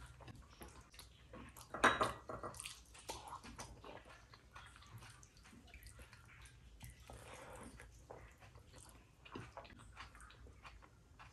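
Messy, close-up eating sounds: a person chewing mouthfuls of rice and curry with irregular wet smacks and clicks, louder for a moment about two seconds in.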